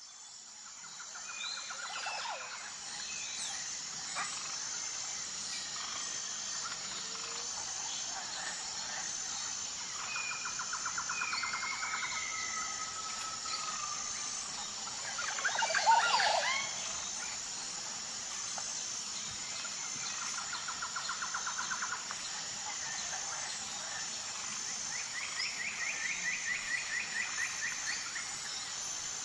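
Natural outdoor ambience that fades in: a steady high-pitched insect drone with a faint regular pulse, over which birds chirp and give repeated short trills. A single louder, more complex call stands out about halfway through.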